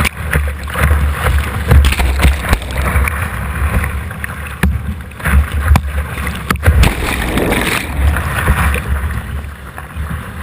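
Whitewater rushing past a kayak, with repeated sharp splashes from paddle strokes and waves, and a heavy low rumble of water and wind buffeting the microphone.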